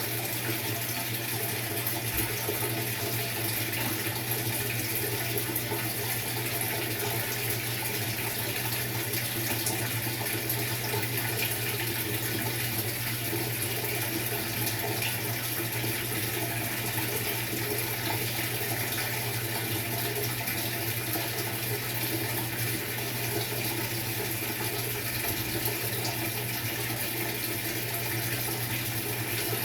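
Maytag MVWX655DW top-load washing machine filling its tub with water during a tub-clean cycle: a steady rush of running water with a constant low hum.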